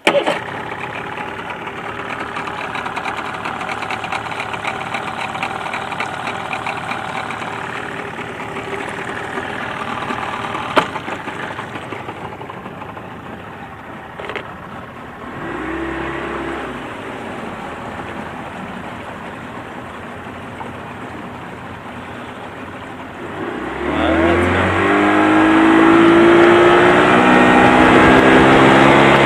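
Mariner 40 HP two-stroke, two-cylinder outboard motor (built by Yamaha, carburetors freshly cleaned) starting and running at low throttle. About 24 seconds in it is throttled up, its note rising in pitch and growing louder, and it runs on harder to the end.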